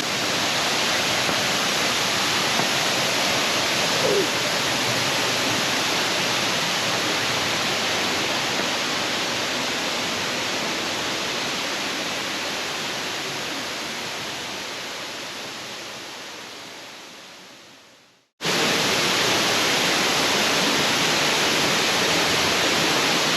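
Steady rush of a waterfall, fading away to nothing about 18 seconds in, then starting again abruptly a moment later.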